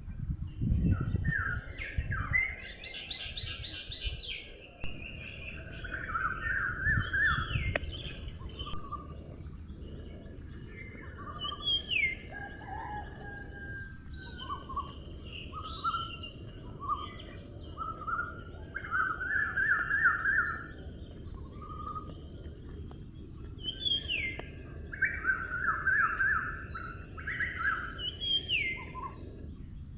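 Songbirds singing and calling in short, repeated chirping phrases over a steady low rumble. A steady high hiss comes in about five seconds in.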